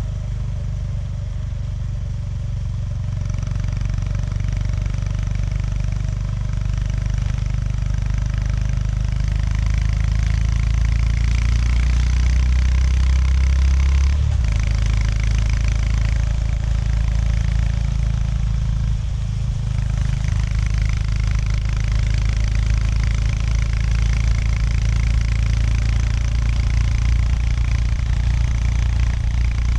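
Honda GB350S's air-cooled single-cylinder engine running under way, the level building gently through the first half. The engine note changes abruptly about halfway through and dips briefly a few seconds later, over a steady rush of wind and road noise.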